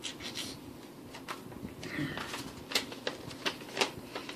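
Scattered light clicks and rustles of unboxed parts and packaging being handled, about eight or nine irregular taps.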